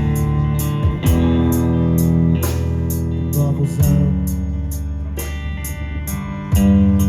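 Live band playing the song's instrumental outro: guitars and bass holding chords that change every second or two over a steady hi-hat tick, with no singing.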